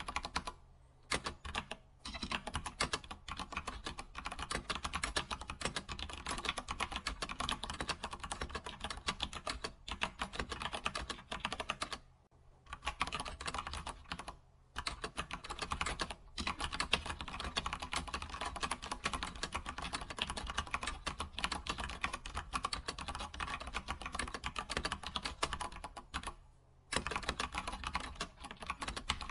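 Computer keyboard typing: fast, continuous keystrokes, broken by a few brief pauses of about a second.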